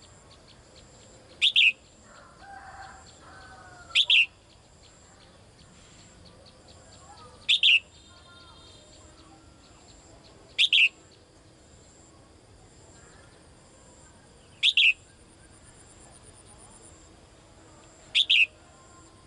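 A caged female songbird calling to a male: a short, sharp call of two quick notes falling in pitch, repeated six times about every three to four seconds.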